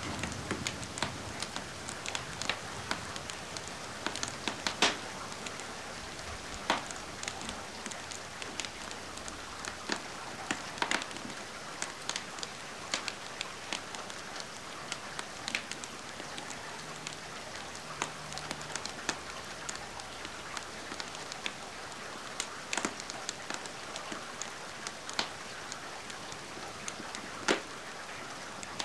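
Steady rain hissing, mixed with a fireplace's wood fire crackling in irregular sharp pops.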